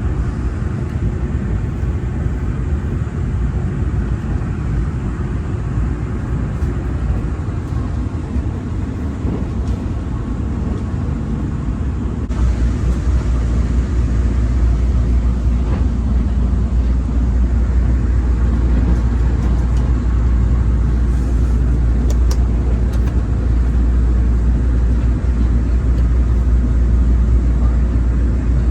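EMU3000 electric train running, a steady low rumble of wheels and motors, which grows louder and deeper about twelve seconds in.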